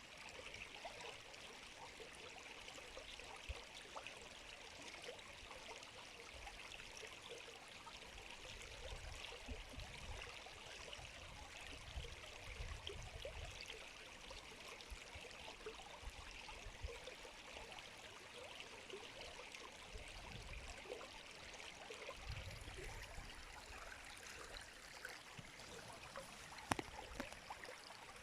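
River water flowing steadily: a faint, even rush of a stream running over stones, with patches of low rumble and a single sharp click near the end.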